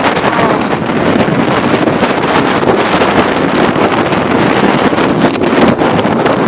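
Wind rushing over the microphone of a moving motorcycle, with the bike's engine running underneath as a loud, steady noise.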